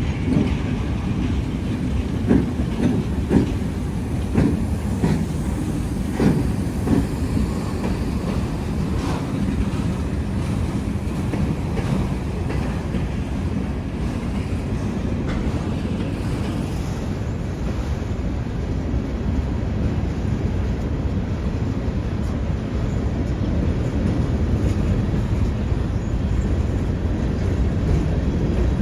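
Freight train cars rolling past, the wheels clacking over rail joints in the first several seconds, then a steady rumble.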